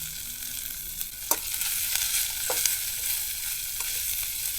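Asparagus frying in oil in a skillet: a steady high sizzle, with a few sharp ticks over it.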